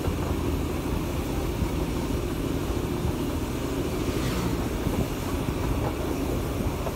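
Darjeeling Himalayan Railway toy train running on its narrow-gauge track, heard from an open carriage window as a steady rumble. A motorcycle passes close by about four seconds in, its sound falling in pitch as it goes by.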